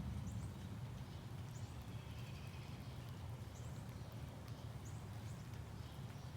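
Outdoor morning ambience: a steady low rumble with a few short, high bird chirps scattered through it.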